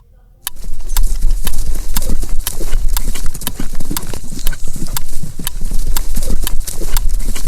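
Horse galloping: hoofbeats in a fast, steady rhythm of sharp knocks, starting about half a second in.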